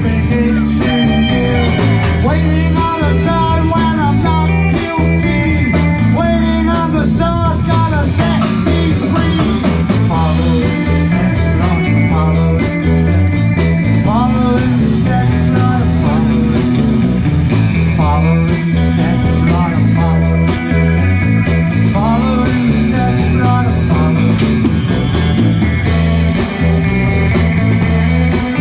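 Live rock band playing an instrumental passage: electric lead guitar soloing with bending notes over bass, drums and percussion.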